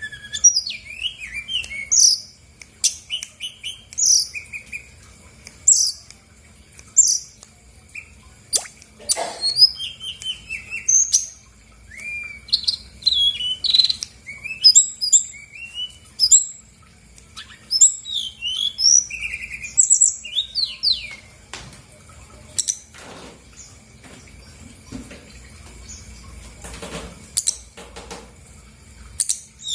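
Brown-chested jungle flycatcher (sikatan rimba dada coklat) singing a long, varied song of quick chirps and whistled notes, with phrases borrowed from other birds, broken by short pauses.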